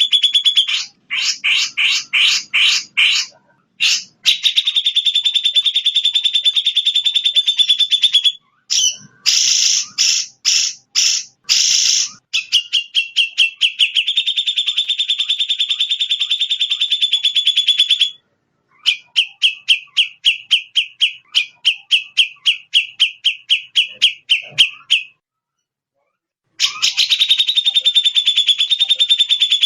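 Recorded songbird song: long, rapid, high-pitched trills alternating with runs of separate sharp chirps, broken by sudden silent gaps where the recording is cut, the longest about three-quarters of the way through. This is masteran audio, bird song played to train caged songbirds.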